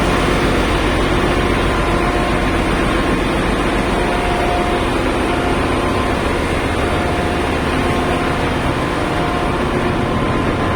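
Ship's engine room machinery running: a loud, steady mechanical din, with a few faint steady tones fading in and out over it.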